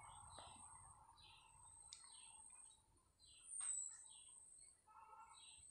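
Near silence, with a run of faint bird chirps repeating about every two-thirds of a second. About three and a half seconds in, there is a brief knock and scrape of a spatula against the kadai as the curry is stirred.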